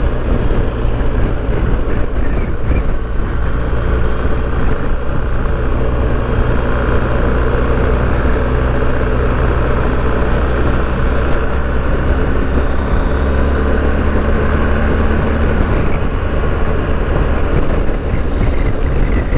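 BMW R1250GS boxer-twin engine running steadily while the motorcycle is ridden at a constant speed, with a steady rush of wind noise over it.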